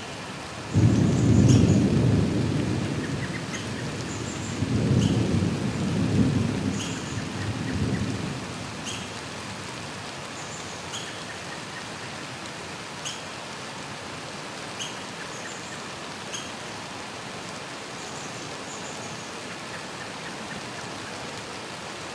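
Loud thunder: a sudden clap about a second in that rumbles and fades over a couple of seconds, then a second rolling rumble from about five to eight seconds in, over the steady hiss of rain.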